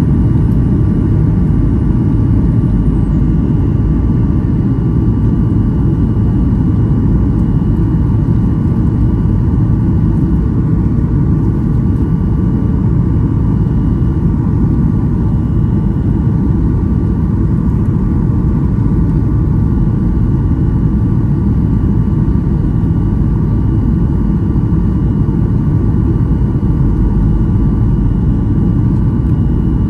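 Boeing 737-800 cabin noise in flight: a steady, loud low rush of airflow and engine noise from the CFM56-7B turbofans, with a few faint steady whining tones above it.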